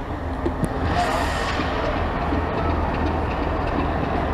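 Heritage railway train running on the line, a steady low rumble with a brief hiss about a second in.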